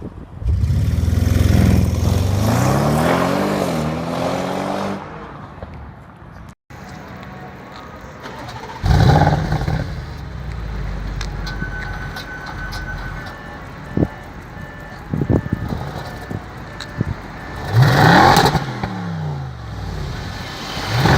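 Audi RS7's twin-turbo V8 revving, its pitch climbing and falling over several seconds, then after a sudden break a few short, sharp rev blips.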